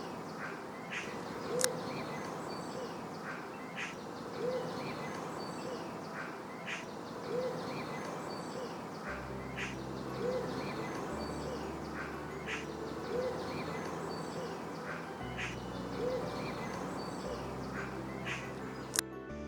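Birdsong: a short, low hoot-like call repeating about every one and a half seconds, with scattered higher chirps, over a steady outdoor hiss. About halfway through, soft background music with slow chord changes comes in underneath.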